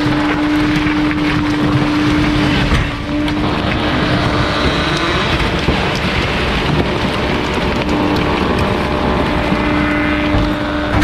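Bulky-waste garbage truck's hydraulic compactor running with a steady hum, over continuous crunching and cracking of the load being crushed. The hum drops out about three seconds in and comes back about eight seconds in.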